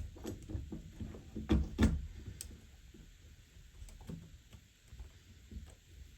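Small G-clamps being handled and fitted onto a glued model-railway platform edging strip: scattered light clicks and knocks, two sharper knocks about a second and a half in, then fainter ticking.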